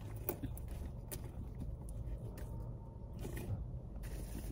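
Car engine idling: a steady low rumble, with a few faint clicks and taps over it.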